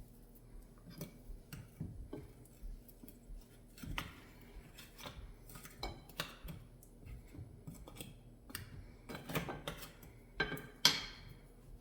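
Kitchen handling sounds: scattered clicks and clatter of utensils and dishes being moved, ending in a sharp ringing clink near the end.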